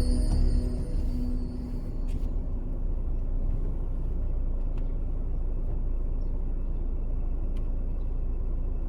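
Music fades out in the first second or two, leaving a steady low outdoor rumble with a few faint clicks.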